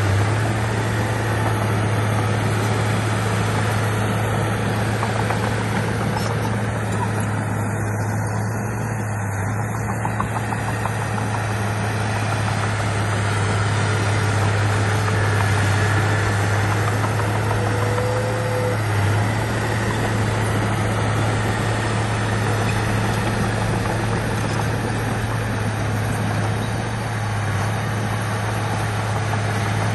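Heavy diesel engine of earthmoving equipment running steadily with a constant low drone.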